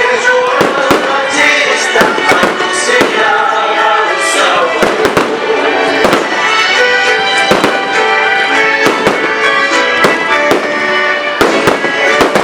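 Fireworks banging and crackling in quick, irregular succession over music playing.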